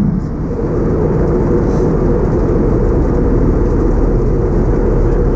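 Steady low rumble of an Airbus A320 heard from inside the cabin: engine and airflow noise at an even level.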